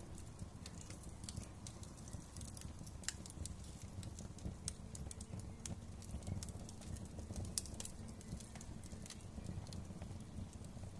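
Wood fire crackling in a fireplace: frequent irregular sharp pops and snaps over a low, steady rumble of the burning.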